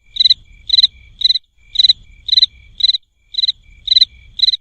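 Cricket chirping: short, high, pulsed chirps about two a second, coming in groups of three with short pauses between groups.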